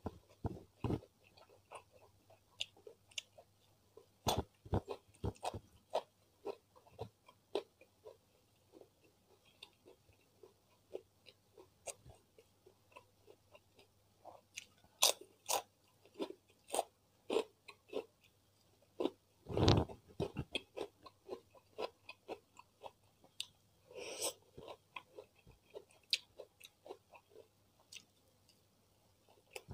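Close-miked chewing and crunching of rice, beef rendang and a crisp cracker: a run of short, sharp crunches and wet mouth clicks. There is one louder thump about two-thirds of the way through.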